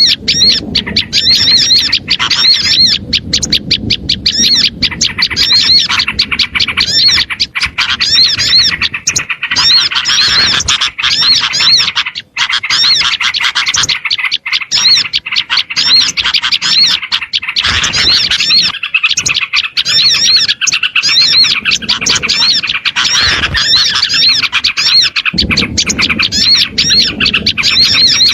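Bird-lure recording of small songbirds calling: a dense, loud, unbroken chatter of short, high, rapidly repeated chirps, mixed from several birds.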